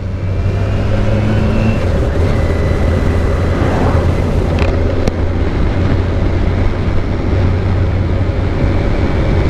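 Motorcycle engine running steadily while riding, with wind rushing over the helmet-mounted camera.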